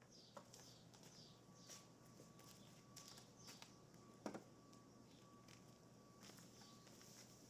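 Near silence: faint outdoor ambience with small bird chirps, a few light clicks, and one soft knock about four seconds in.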